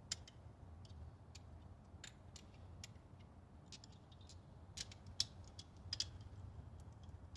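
Faint, irregular clicks and taps of hand tools on the engine during spark plug and ignition coil removal, over a low steady hum.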